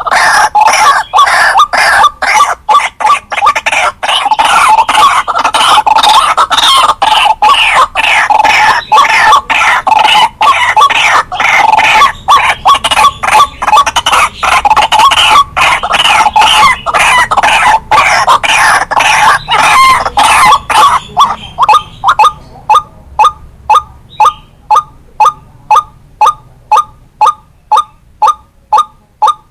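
White-breasted waterhen calling: a dense run of harsh, rapidly repeated croaking notes, which about 22 s in gives way to an even series of short single notes, about one and a half a second.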